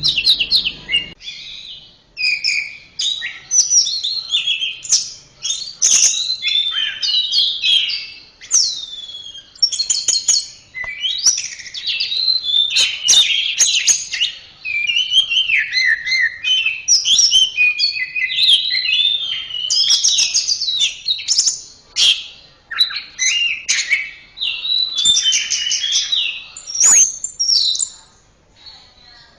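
Orange-headed thrush (anis merah) singing a long, varied song of rapid whistled and chattering phrases, with short pauses about a second in and near the end.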